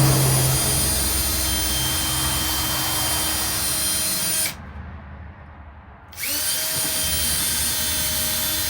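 Power drill boring holes for hinge screws, running in two runs. It spins up with a steady high whine and runs for about four and a half seconds, stops, then starts again about a second and a half later and keeps running.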